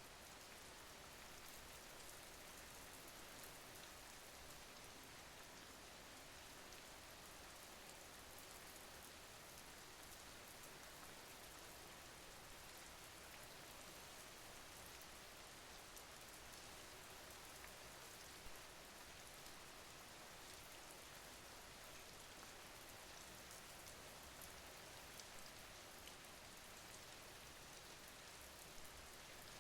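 Faint, steady rain falling: an even hiss of drops with fine patter, and a couple of slightly louder taps, one a little past the middle and one near the end.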